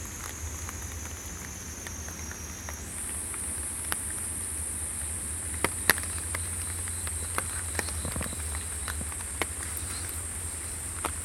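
A cicada singing a steady, high-pitched continuous buzz; its pitch steps up about three seconds in and then holds. It is the first cicada heard this season.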